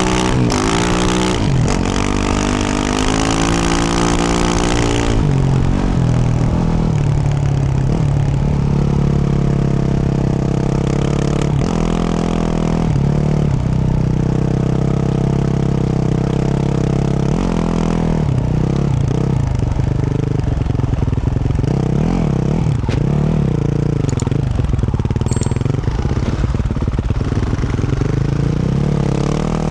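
2024 Yamaha YZ450F dirt bike's single-cylinder four-stroke engine with a Yoshimura RS-12 exhaust, revving high with the pitch swinging up and down for the first few seconds. It then settles to lower revs, with a couple of short throttle blips later on.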